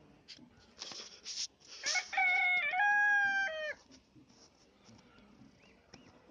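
A rooster crowing once: a loud call in held, stepped notes that drops in pitch at the end, about two seconds in, after a few short noisy sounds.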